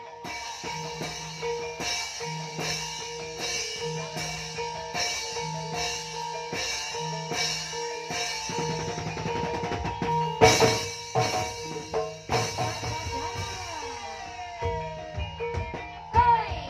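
Band playing an instrumental passage: a steady drum beat of a little more than one stroke a second over a repeating bass line and held keyboard-like tones, with a louder drum fill about ten seconds in.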